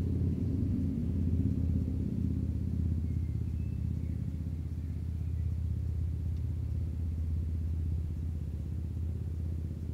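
A steady low engine rumble, easing off slightly over the seconds, with a few faint high chirps a few seconds in.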